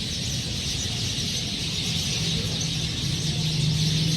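A large flock of sparrows chattering at once, a dense unbroken chorus of chirps as they settle into their evening roost. A steady low hum runs underneath.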